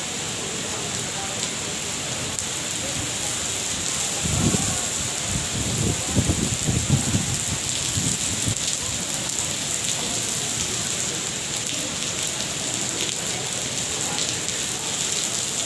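Steady heavy rain falling, an even hiss throughout. Between about four and nine seconds in, a few low rumbling swells rise over it.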